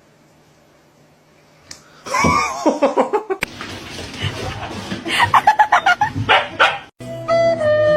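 An animal's calls after a quiet start: gliding cries, then a quick run of short, sharp yips about five seconds in. Music begins near the end.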